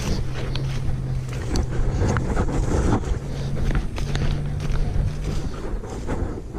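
Wind buffeting the microphone, with a steady low engine hum that shifts pitch a couple of times and fades before the end, and scattered light knocks.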